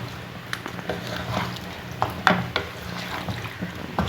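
A spoon stirring chicken curry in a cooking pan, scraping and clinking against the pan a few times, over a steady low hum.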